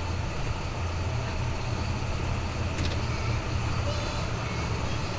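Ambient track made of a steady, low traffic-like rumble under an even hiss of city noise, with a brief sharp click about three seconds in.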